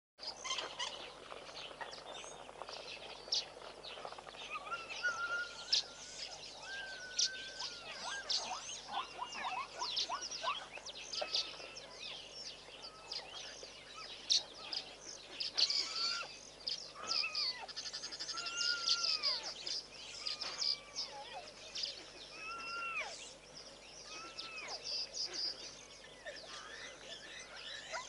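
Several wild birds calling and chirping together: repeated short, arched whistled notes mixed with rapid high-pitched trills.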